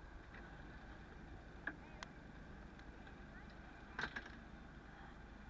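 Steady low hum of a fishing boat at sea, with a few sharp knocks and clicks, the loudest pair about four seconds in.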